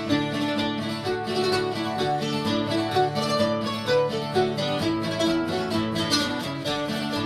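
A band playing an up-tempo instrumental passage on strummed and picked plucked-string instruments, with no singing.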